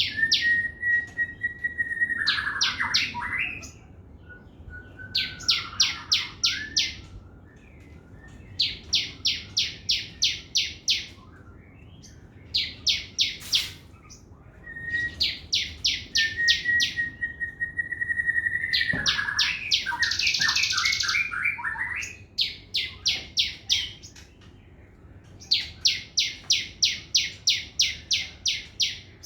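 Crimson sunbird (sogon) singing its fast 'trotol' song: bouts of rapid, evenly repeated sharp notes, about six a second, each bout lasting one to two seconds. Twice it is led in by a long steady whistle that drops in pitch at the end.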